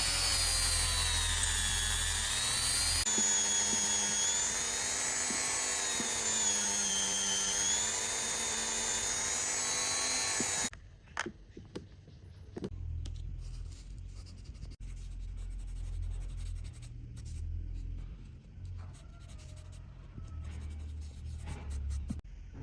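Small high-speed rotary tool whining, its pitch sinking and rising as the load on it changes, then cutting off suddenly about ten seconds in. After that come light clicks and small knocks from handling.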